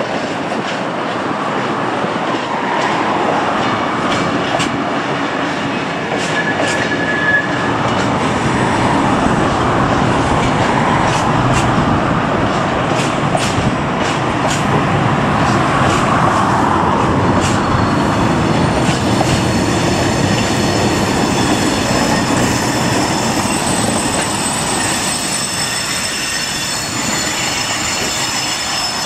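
Empty open freight wagons rolling past on a tight curve: a steady rumble of wheels with sharp clicks over the rail joints, and from a little past halfway the wheel flanges squealing in several steady high tones.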